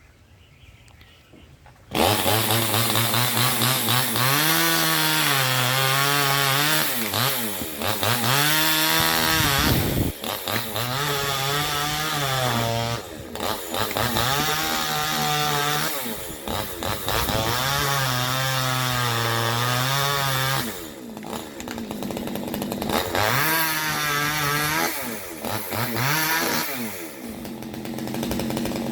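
Chainsaw coming in suddenly about two seconds in and running hard, cutting through a coconut palm, its engine note repeatedly rising and dipping.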